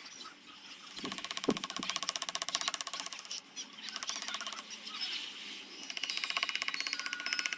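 Small handheld power tool running with a rapid, even ticking buzz, dipping briefly twice.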